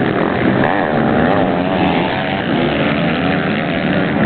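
Several motocross bikes' engines running at once. Their overlapping engine notes rise and fall in pitch as the riders rev and ease off.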